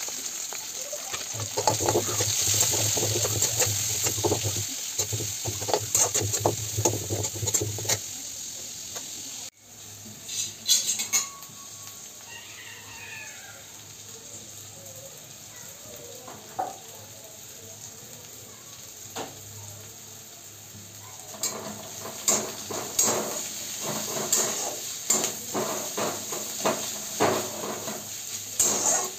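Onions and garlic sizzling and crackling as they fry in oil in a wok. After a sudden cut the frying goes on more quietly, and for the last several seconds stirring strokes scrape and knock against the pan again and again.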